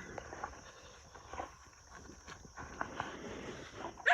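Faint footsteps and rustling on a walk: a scatter of soft, irregular steps.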